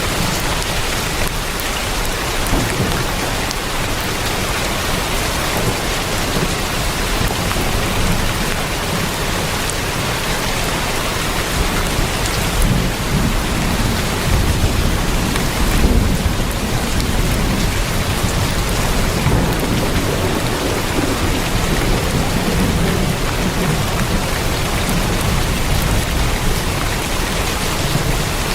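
Heavy, steady rain drumming on a tin roof, a dense even patter, with a low rumble swelling up about halfway through.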